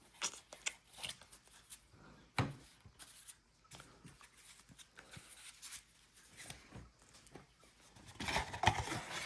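Football trading cards being handled: soft slides and clicks of card stock, with louder rustling and scraping starting about eight seconds in.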